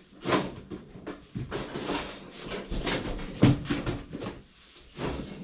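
Washing-machine pedestal drawer being worked loose and pulled along its slides: irregular knocks, rattles and scraping, with short squeaky stretches.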